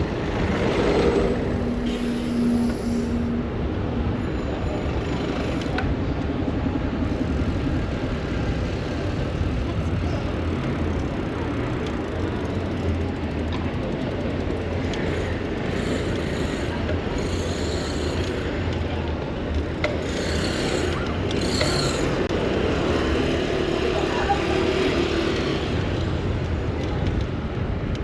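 Steady city street traffic noise heard from a bicycle riding through busy streets, with passing vehicles.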